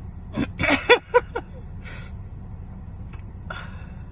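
Steady low hum of a car engine idling, heard from inside the closed cabin. A short burst of a voice cuts in about half a second in and lasts about a second.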